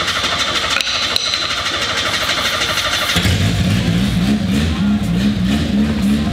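An old Nissan Skyline R31 wagon's engine cranking on its starter with starting spray fed into the intake, then catching about three seconds in and running roughly. It is a worn engine whose crankcase pressure has already blown the oil cap off.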